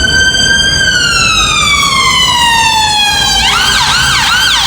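Electronic emergency-vehicle siren sounding loudly: a held wail tone that slides slowly down in pitch, then switches a little over three seconds in to a rapid yelp of about two to three sweeps a second.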